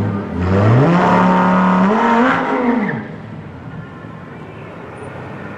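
Lamborghini Huracán Performante's V10 revved while standing still. The pitch climbs over about two seconds and holds high, then drops away about three seconds in, leaving a quieter steady running sound.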